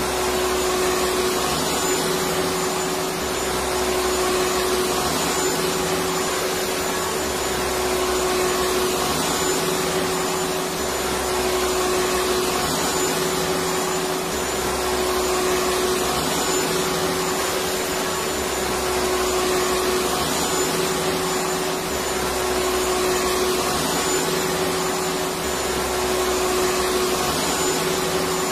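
Electric vacuum cleaner running steadily: a continuous rushing motor noise with a steady hum and a thin high whine, and a low rumble that swells and fades every few seconds.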